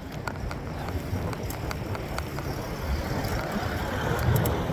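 Riding noise from a mountain bike on the road: a steady low rumble of wind and tyres with scattered sharp clicks and rattles, growing slightly louder towards the end.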